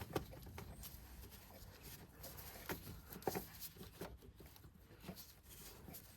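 Scattered faint knocks and clicks, a handful of separate light impacts with the loudest about three seconds in.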